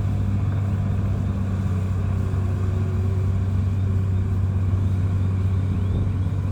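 Heavy diesel engine of earthmoving equipment running steadily under load, a constant low drone that holds an even pitch and level.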